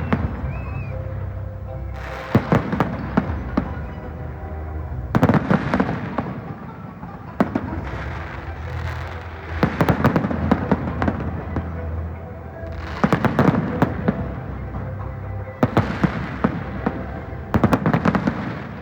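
Fireworks display: groups of sharp bangs and crackling about every two to three seconds, with music playing underneath.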